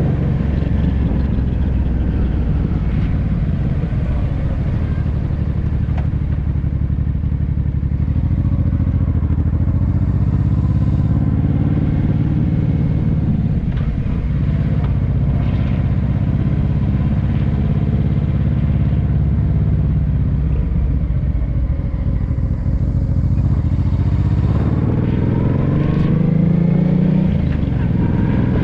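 Honda Deauville 650V V-twin motorcycle engine running through an aftermarket Dominator exhaust while riding, its note mostly steady, then rising as it revs up a few seconds before the end.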